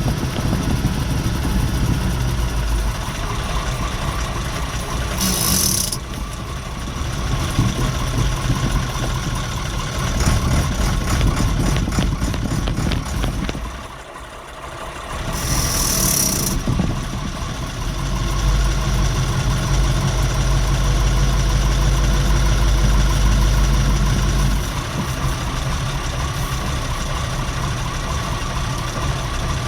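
Leyland Mastiff's Perkins V8 540 diesel engine running, heard from inside the cab. Two short bursts of air hiss come from the truck's air brake system, about a third of the way in and again past halfway. The engine dips quiet just before the second hiss, then runs loudly with a deep low note for several seconds, pulling under load, before settling back.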